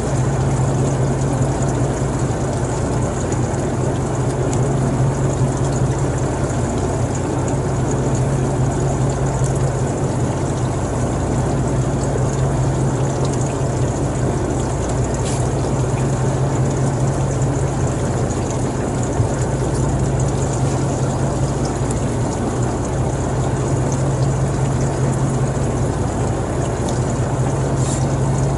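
An engine running steadily: a constant low hum over an even rush of noise, with no change in speed.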